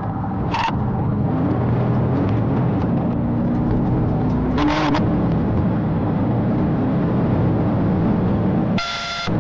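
Police car running at high speed during a pursuit: steady engine, road and wind noise, with a few brief sharp clicks and a short high beep near the end.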